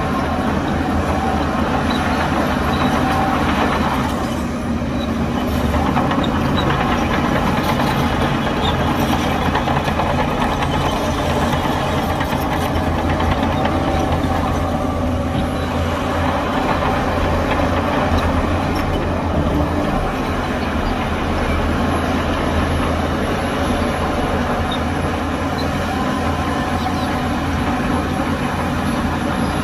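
Heavy diesel earthmoving machinery, a crawler bulldozer and dump trucks, running steadily with a constant low engine drone, dipping slightly for a moment about four seconds in.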